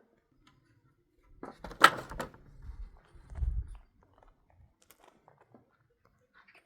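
A short clatter of sharp knocks about two seconds in, followed by a low dull thud.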